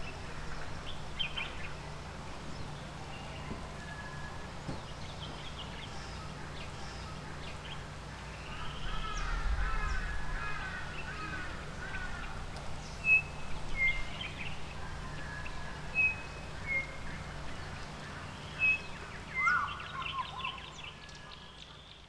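Wild birds calling around the spot: scattered short chirps, a burst of chattering, warbling calls about halfway through, then a series of short, high whistled notes, a few of them loud, over a steady low hum.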